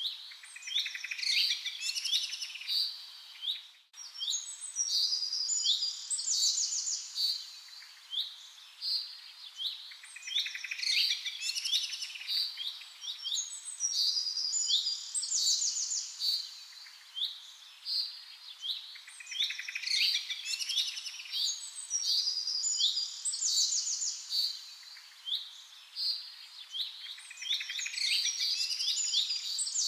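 Songbirds chirping and calling in quick, overlapping high notes, with a brief break about four seconds in. The same run of calls comes round again about every nine seconds, like a looped recording.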